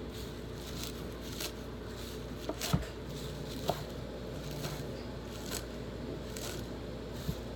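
Irregular light knocks and clicks from kitchen prep work, roughly one a second, the loudest about three seconds in, over a steady low hum.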